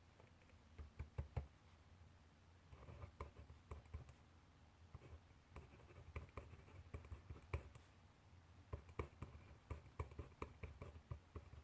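Handwriting on paper: faint, irregular taps and short scratches of the writing tip on the page.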